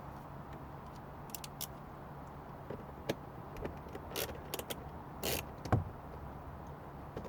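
Scattered clicks, taps and short scrapes of dashboard trim and screws being handled and worked loose, the loudest a knock near the end; a low steady hum runs underneath.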